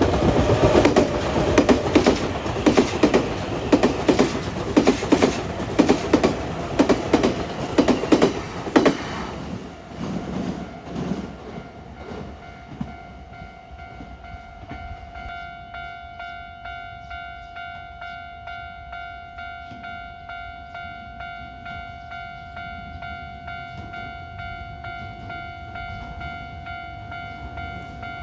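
A Nankai electric train passing over a level crossing, its wheels clacking over the rail joints in a quick, even rhythm for about nine seconds before fading away. The crossing's electronic warning bell is then heard ringing in a steady repeating ding.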